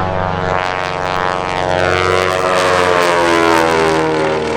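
T-6 Texan propeller planes passing low, their radial engines and propellers droning with a pitch that falls steadily as they go by.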